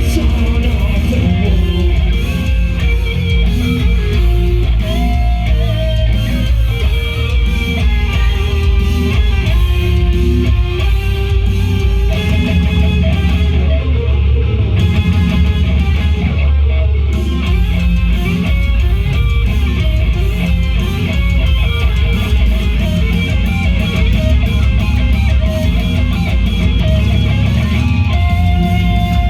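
Live heavy metal band playing: distorted electric guitars, bass guitar and drums, loud and dense, with the high end dropping out briefly twice about halfway.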